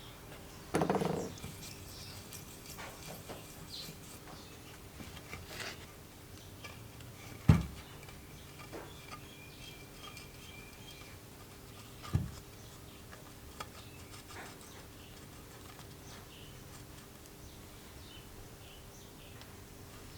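Tools and metal engine parts handled on a workbench: a brief scrape about a second in, then a sharp knock, the loudest sound, and a smaller knock a few seconds later, with light clicks between, over a steady faint hum.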